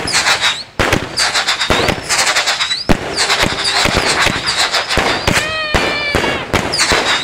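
Fireworks going off in a dense barrage: repeated sharp bangs and crackling, with the high, wavering whistles of whistling rockets running through it.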